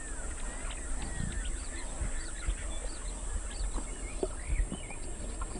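Birds chirping and calling: many short, quick whistled glides, over a steady low rumble with scattered soft clicks.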